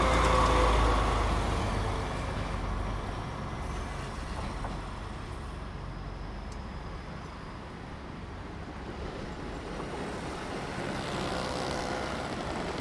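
Train passing by the track, its rumble and engine tones loud at first and fading over about two seconds, then a steady lower rumble that swells again near the end as a train draws closer.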